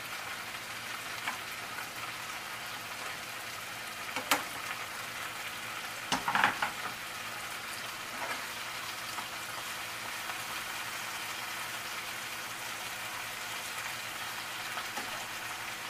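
Asparagus and greens sizzling in frying pans over a medium-high gas flame, a steady hiss. A spoon stirring clacks against a pan once about four seconds in and in a short cluster of louder knocks about six seconds in.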